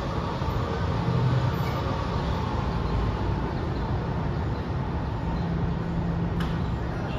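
Train running on the rails: a steady, loud low rumble with a faint hum over it.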